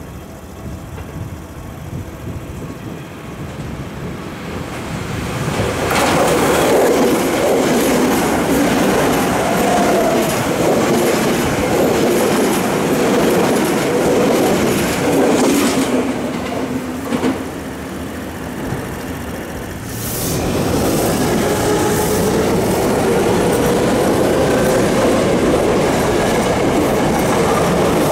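Tokyo Metro 7000 series electric commuter train running past close by, its noise building over the first few seconds as it approaches. About twenty seconds in, the sound switches suddenly to another 7000 series train running past, steady and loud with a faint steady tone in its running noise.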